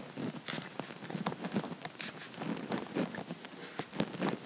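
Pussy willow twigs being handled and set into the arrangement: small, irregular clicks and taps of woody stems.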